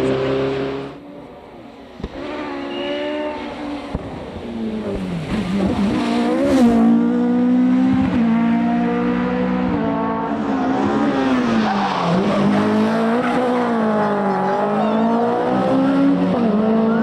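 Rally car engines at full throttle on a stage. One cuts off sharply about a second in. Another comes in and grows louder, revving up and dropping back several times as the driver lifts and shifts through the gears.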